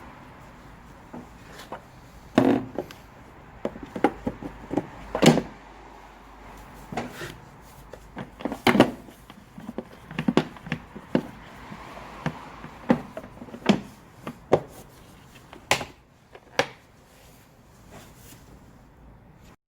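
A series of irregular, sharp knocks and clunks, about twenty in all, over a faint steady background.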